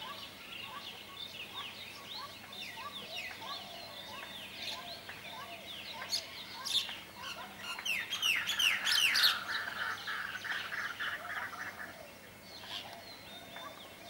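Birds chirping and calling in a steady stream of short, high, falling notes, with a louder, denser run of calls about eight seconds in.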